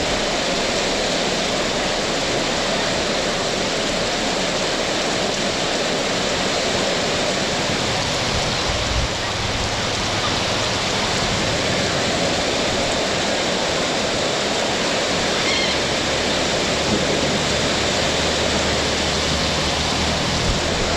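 Heavy tropical rain pouring down, a steady, loud hiss of water.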